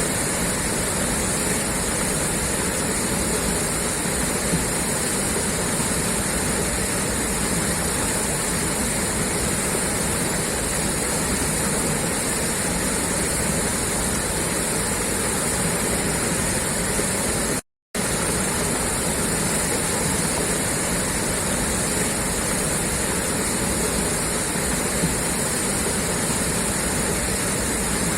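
Water gushing steadily out of a pipeline outlet, an even rushing noise. It cuts out for a fraction of a second about two-thirds of the way through, then resumes unchanged.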